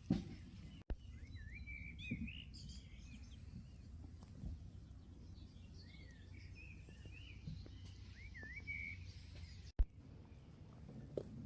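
A small songbird singing a twittering, warbling song of quick up-and-down swoops, over a low steady outdoor background, with a few soft knocks.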